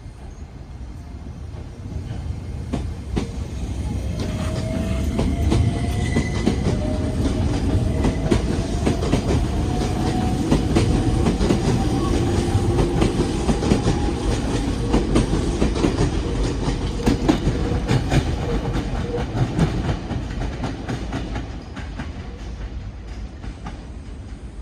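Nagoya Municipal Subway N3000-series electric train departing and accelerating past. Its traction motors give a whine that rises in pitch as it gathers speed, and its wheels clack over the rail joints. The sound builds over the first few seconds and fades as the train draws away near the end.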